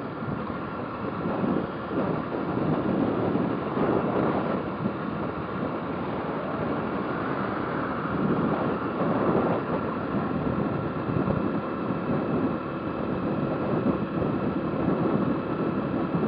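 Motorcycle running on the road, its engine mixed with wind rushing over the microphone; the level swells and eases.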